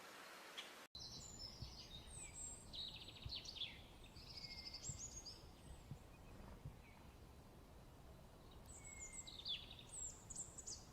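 Small birds singing faintly in two spells of quick, falling notes and trills with a pause between them. A hiss cuts off abruptly about a second in.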